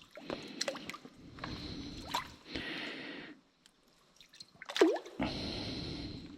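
Water drops falling into a flooded mine shaft, with one loud plink that rises in pitch about five seconds in, among scattered smaller clicks and stretches of rustling noise that come and go.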